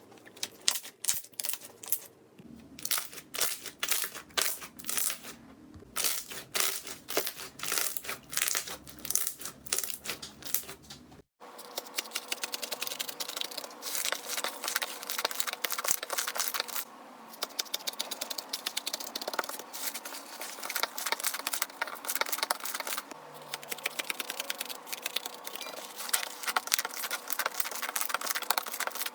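Slime being squeezed and pressed by hand: a run of sticky clicks and crackling pops, which becomes a denser, faster crackle after a cut about eleven seconds in.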